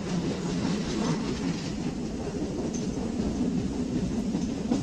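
Steady running noise of a moving Chennai suburban electric train, heard from inside the carriage: a low, even rumble of wheels on the rails.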